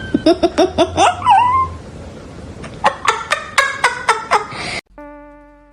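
A person laughing in two quick bouts of short rhythmic bursts. After a sudden cut near the end, a steady, even-pitched buzzing tone follows.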